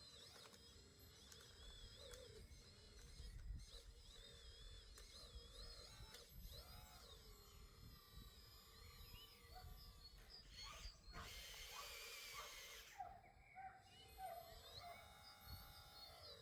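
Faint birdsong: many short, wavering chirps and whistles. About eleven seconds in there is a brief hiss lasting about two seconds.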